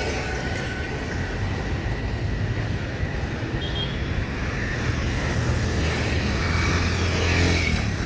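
Road noise of a moving car: a steady low engine and tyre rumble, swelling slightly near the end.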